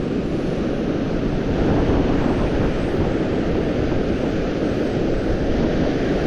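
Strong gusting wind buffeting the microphone: a loud, steady, low rumble with no distinct events.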